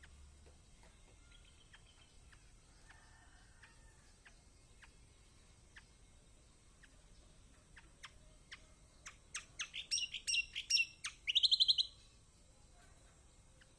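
Kecial kombok, a yellow white-eye, calling. Faint scattered high chirps build about two-thirds of the way in to a quick run of sharp chirping notes, which ends in a short, fast, high trill.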